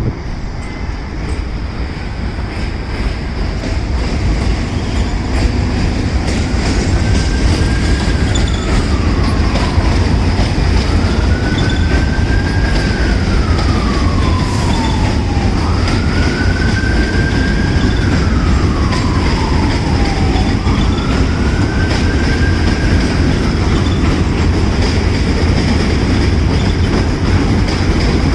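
A New York subway train running through the station, a loud steady rumble and rattle of wheels on rail that swells over the first few seconds. Through the middle a siren wails, rising and falling four times.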